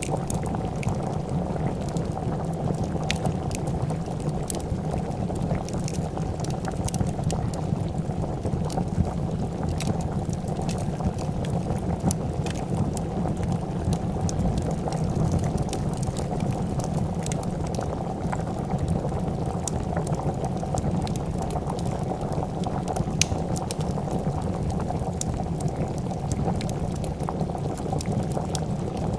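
A pot of soup bubbling at a steady boil, with scattered small crackles and pops from a wood fire.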